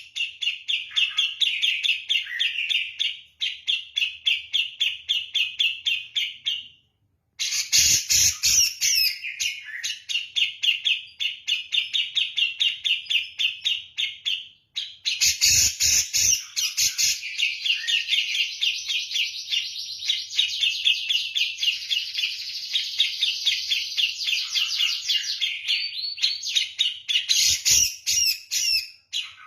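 Cucak jenggot (grey-cheeked bulbul) singing long runs of fast, rapidly repeated chattering notes in the driven style of a kapas tembak, broken twice by brief silences.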